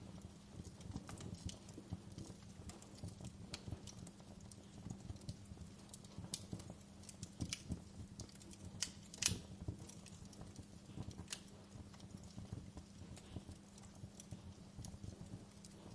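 Wood fire burning in a fireplace, crackling with irregular small pops, one sharper pop about nine seconds in, over a low steady rumble.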